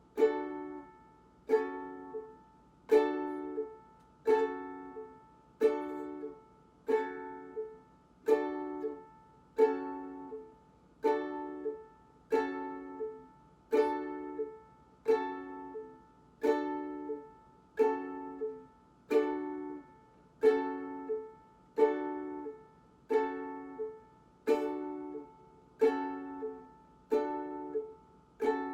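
Ukulele strummed in single slow strokes, about one every second and a half, each chord left to ring and fade before the next. This is slow practice of the chord change between D and Gbm.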